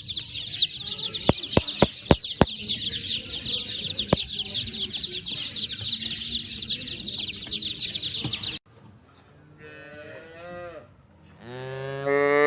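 A crowd of small birds chirping rapidly, with a few sharp clicks among them; the chirping stops abruptly. After it, a softer call and then a cow's long, loud moo near the end.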